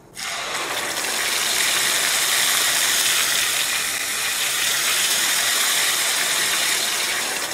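Tomato, ginger and green chilli puree hitting hot oil in a frying pan and sizzling hard: a dense, crackling spatter that starts abruptly just after the start and holds steady.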